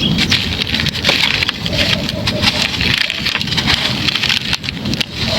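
Dry moulded chunks being crushed and crumbled by hand: a continuous dense crunching and crackling made of many small gritty snaps.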